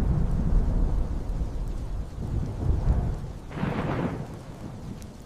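Deep rolling thunder with rain, slowly fading, with a louder, sharper thunderclap about three and a half seconds in.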